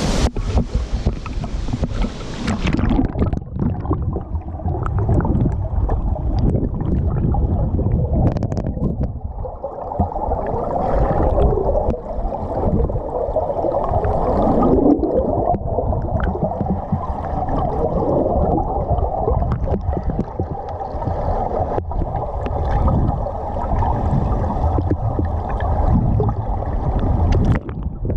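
Muffled underwater sound of a dive: churning, gurgling water and bubbles with a low rumble. The open-air hiss of falling water cuts off about two and a half seconds in as the microphone goes under the surface.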